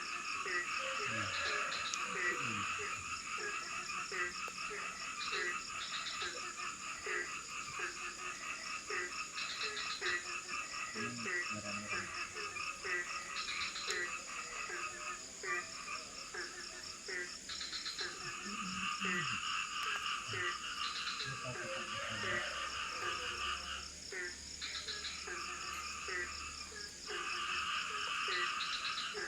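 Tropical rainforest frog chorus: many frogs calling over one another in dense pulsed trills. A deeper frog croaks in a steady run of about one and a half notes a second, under a constant high-pitched trill.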